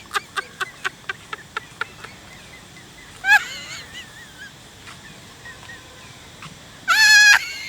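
A young macaque calling: a fast string of short shrill calls that fades out within the first two seconds, then a loud wavering scream about three seconds in and a longer, louder one near the end.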